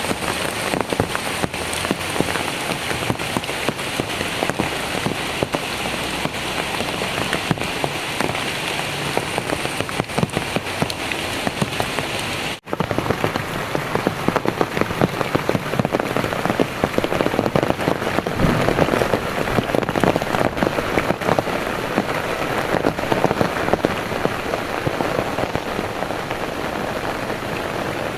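Heavy rain pouring steadily, a dense patter of drops hitting surfaces; the sound cuts out for an instant about halfway through.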